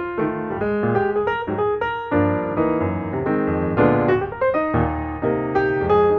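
Background piano music: a flowing stream of single notes and chords, each struck note decaying before the next.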